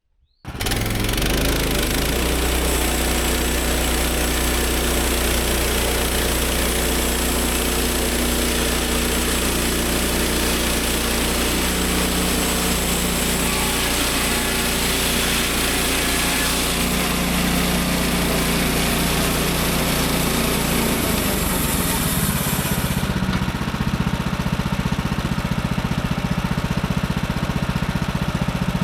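Woodland Mills HM130 MAX bandsaw mill running: its gas engine at full throttle as the band blade cuts through a cedar log. A little over twenty seconds in, the cutting noise stops and the engine settles into a lower, steadier run.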